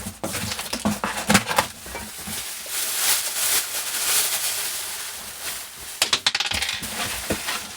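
A newly bought chair being unpacked and put together: sharp clinks and knocks of its parts, with a stretch of rustling in the middle.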